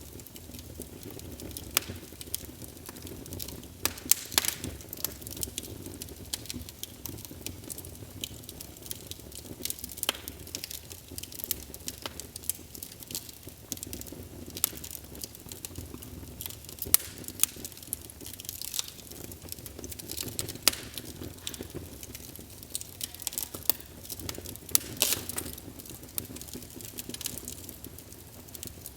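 Wood fire crackling in a fireplace: irregular sharp pops and snaps over a low, steady rumble of flame.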